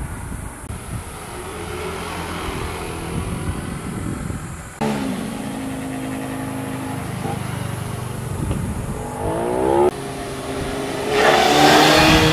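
Motorcycle engines accelerating and revving as they ride past, heard in several short cuts. The pitch rises in quick steps around nine seconds in, and a louder pass comes near the end.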